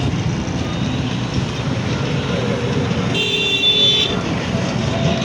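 Steady engine and road-traffic noise, with a vehicle horn sounding once for just under a second about three seconds in.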